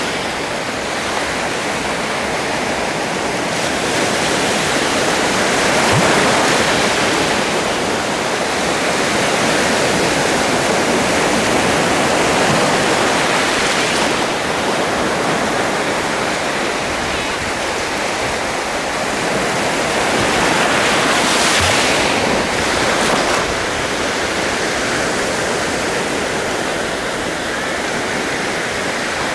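Sea waves washing onto a shore: a continuous rushing surf that swells and eases, with fuller breaks about six seconds in, around twelve seconds and again around twenty-one seconds.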